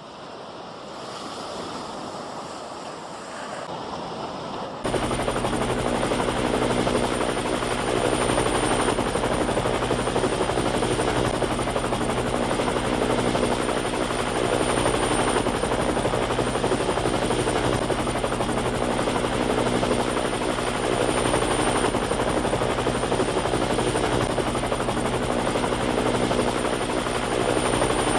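Helicopter running steadily: a fast low rotor beat with a thin high whine. It cuts in abruptly about five seconds in, after a softer rushing noise of wind and sea.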